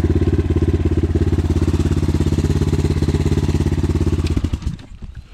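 A 250 cc single-cylinder enduro motorcycle engine idling steadily at an even pitch, then switched off about four and a half seconds in, running down to a stop.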